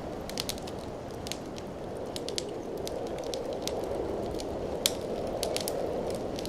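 Wood fire burning in a fireplace: a steady low rush of flames with irregular crackles and pops, the sharpest pop about five seconds in.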